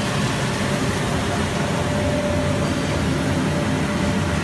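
Date spray-washing machine running: a steady, even machine noise with a faint constant tone.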